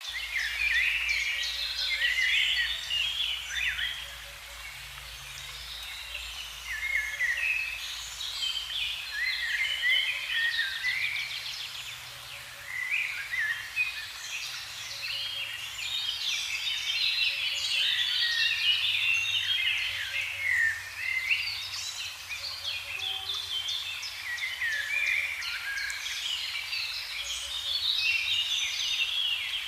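Many songbirds singing and chirping at once: a dense chorus of quick, overlapping calls and trills.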